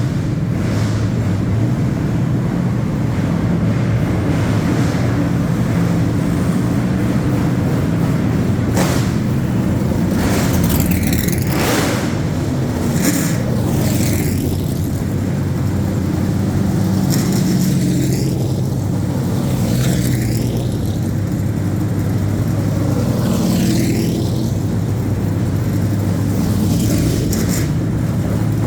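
Several ARCA Menards Series West stock cars' V8 engines running at low speed as the cars roll out one after another. Some pass close by, their engine note sweeping up and down.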